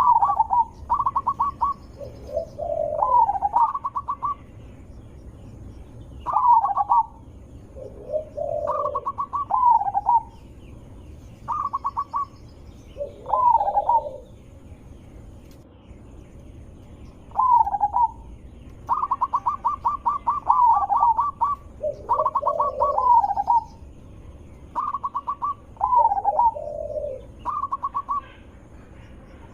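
Zebra doves (perkutut) singing: repeated cooing phrases every two to three seconds, each a quick run of stuttering notes that ends in a falling coo, with lower, deeper coos between them.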